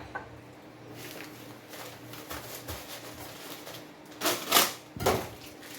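Kitchen handling noises: light clicks and knocks of utensils and containers, with two louder rustling, scraping bursts about four and five seconds in.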